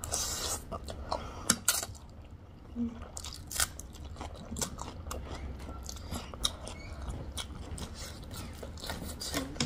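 Close-miked chewing and biting of food, with many small sharp mouth clicks and smacks scattered throughout, over a low steady hum.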